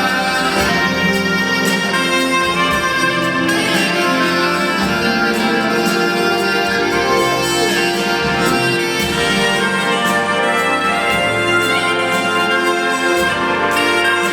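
Smooth-jazz band playing live: a soprano saxophone melody over keyboards and band, with long sustained notes.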